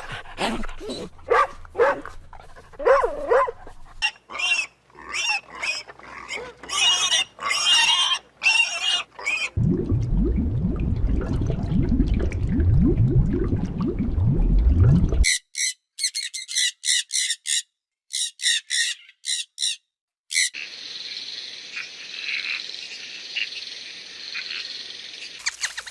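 A run of different animal calls, one clip after another. First come irregular calls, then a loud deep pulsing grunting stretch, then rapid high repeated chirps, then a steady high chorus of insects or frogs.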